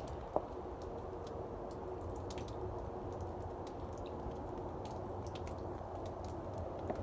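Outdoor ambience during snowfall: a steady low rumble with a faint even hum under it, and sparse soft ticks and crackles, with one sharper click about half a second in.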